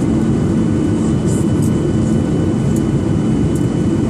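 Cabin noise inside a Boeing 737-800: the CFM56 jet engines and airflow make a loud, steady noise, heaviest in the low end, with a faint steady hum and a few light rattles.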